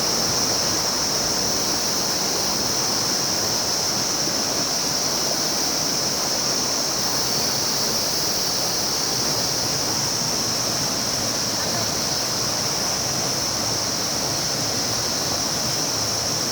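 River water flowing steadily, an even rushing noise with a constant high hiss.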